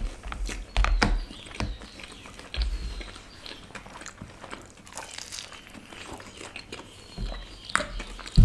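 Close-miked chewing and mouth sounds of people eating paratha pizza: many short wet clicks and smacks, with a few dull low thumps.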